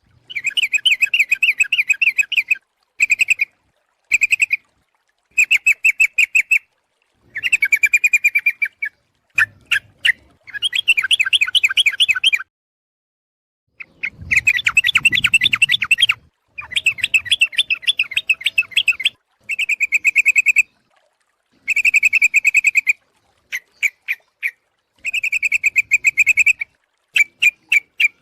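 Yellow-vented bulbul (trucuk) chattering call, played as a bird-trapping lure recording. It comes as bursts of rapid, bubbling notes, each lasting about half a second to two seconds, separated by sudden silent gaps.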